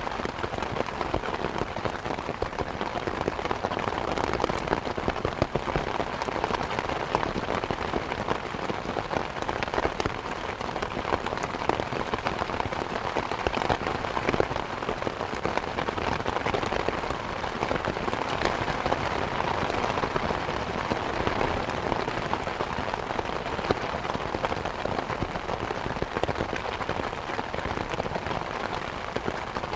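Steady rain, a dense patter of many drops falling without letup.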